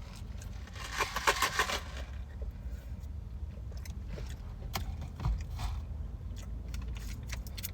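Close-up eating sounds: a person biting into and chewing a fried chicken and waffle sandwich. There is a burst of crunchy crackles about a second in, then scattered small clicks of chewing and handling.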